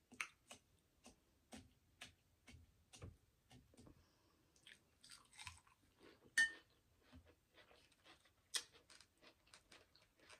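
Close-miked chewing of a person eating: soft wet mouth clicks and smacks, about one or two a second, with one sharper click that rings briefly about six seconds in.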